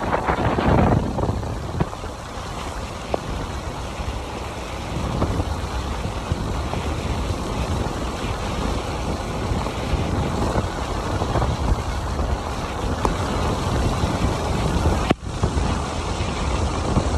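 Rain falling in gusty wind, the wind buffeting the microphone as a steady low rumble. The sound drops out briefly about fifteen seconds in.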